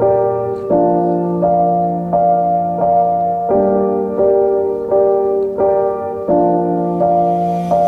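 Background music: gentle piano playing evenly paced notes and chords, about one every 0.7 seconds, over a slowly changing bass line.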